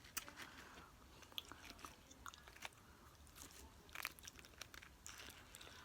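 Faint chewing of nachos, with scattered crisp crunches of tortilla chips.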